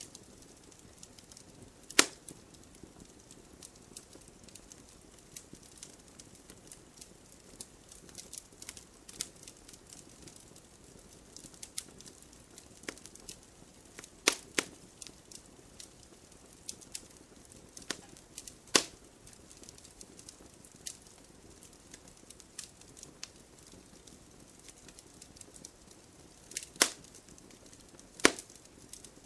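Campfire crackling: a faint steady hiss with many small snaps and about six sharp, louder pops scattered through the half-minute.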